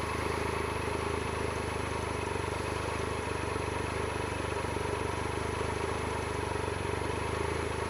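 Triumph Explorer 1215cc three-cylinder motorcycle engine running steadily at low revs, holding an even note with no revving.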